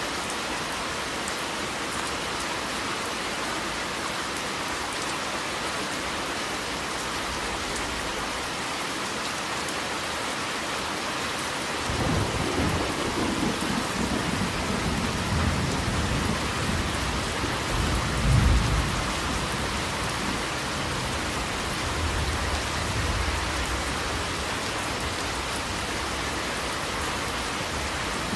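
Steady rain falling on a surface, with a low rolling thunder rumble that begins about twelve seconds in, swells to its loudest a few seconds later, and rolls on more softly under the rain.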